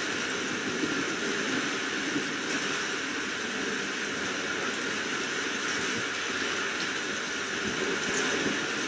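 Steady rain falling, a dense even hiss that stays level throughout.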